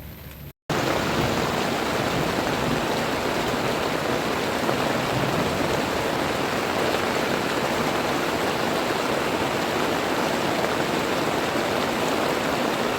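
Heavy rain falling hard and steady as a dense hiss. It starts abruptly about half a second in and holds at a constant level, with no thunder or separate drops standing out.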